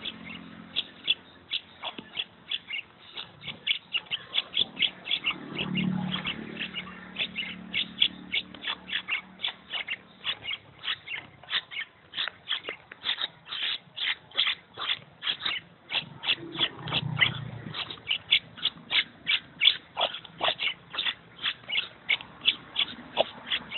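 Maraba bird chicks near fledging giving a fast, steady series of short, high chirps, about three or four a second, with two brief low rumbles in the background.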